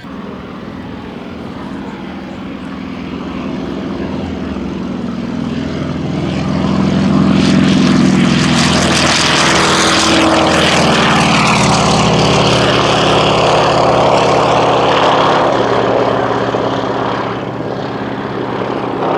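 Radial-engined propeller aircraft, the T-6 'Super Six' with its geared Pratt & Whitney R-1340 and a Beechcraft AT-11 Kansan, flying past in formation. The engine drone swells as they approach, holds loud for several seconds, and drops in pitch as they pass.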